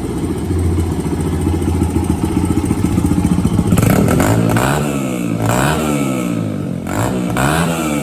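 2001 Honda XR100's single-cylinder four-stroke engine running with the choke off after its carburetor and jets were cleaned; it idles steadily, then about halfway through the throttle is blipped several times, the revs rising and falling each time. It runs off choke now, which the owner takes as sounding good.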